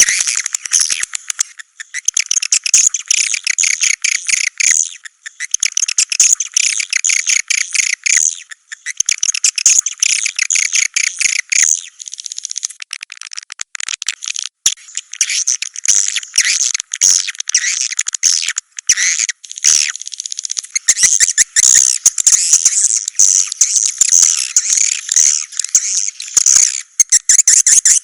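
Recorded swiftlet calls played as a swiftlet-house lure sound: dense, rapid twittering chirps in bursts of a few seconds with brief breaks between them.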